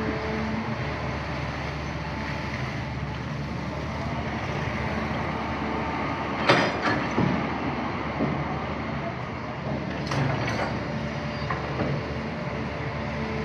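Excavator's diesel engine running steadily, with a sharp knock about six and a half seconds in and two more around ten seconds in.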